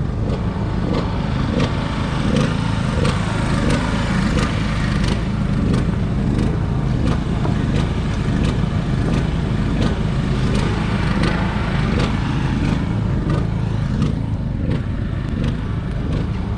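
A motor runs steadily and loudly, with a low rumble and regular ticks about one and a half times a second.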